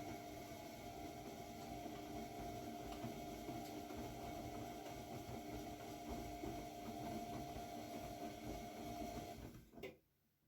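AEG Lavamat W 1450 washing machine running with a steady motor hum and rumble. It cuts off near the end with a click.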